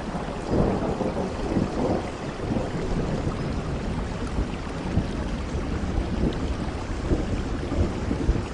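Steady rain with low, rumbling thunder, the rumble swelling about a second in.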